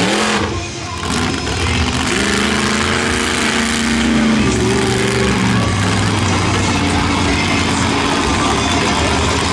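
Smashosaurus monster truck's engine at high throttle during a freestyle run, its revs climbing, holding and dropping again several times.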